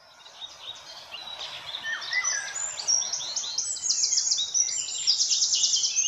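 Birds singing: many short chirps and trills from several birds overlapping, fading in over the first couple of seconds and then staying loud, over a faint steady background hiss.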